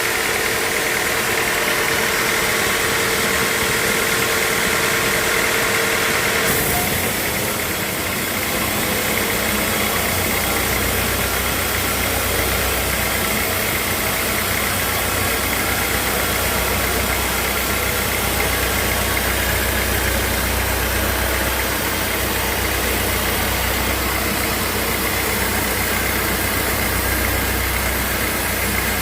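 Sawmill machinery running steadily. The sound changes abruptly about six and a half seconds in, and a low rumble comes in around ten seconds.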